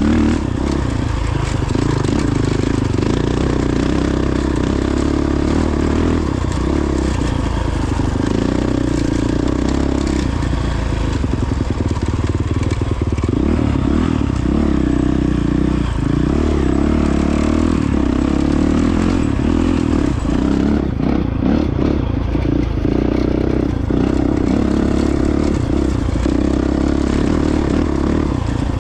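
Honda CRF450X dirt bike's 450cc single-cylinder four-stroke engine running steadily under way, its pitch rising and falling a little with the throttle. Occasional knocks and clatter, more often in the second half.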